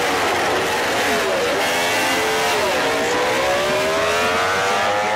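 MotoGP race bikes' four-stroke engines at racing speed, dropping in pitch twice as they brake and shift down for corners, then revving up in a long rise as they accelerate out.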